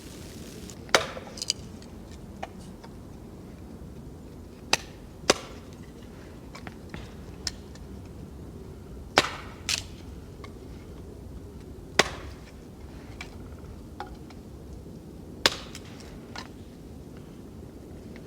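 About a dozen sharp knocks at irregular intervals, each a single hard impact, over a steady low background hiss.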